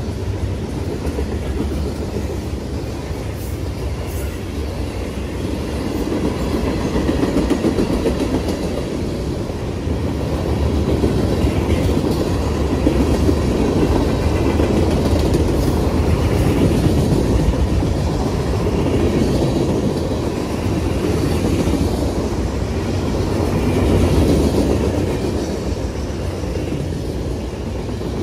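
Freight train cars rolling past: a steady rumble of steel wheels on rail with a clickety-clack over the rail joints, swelling and easing as the cars go by.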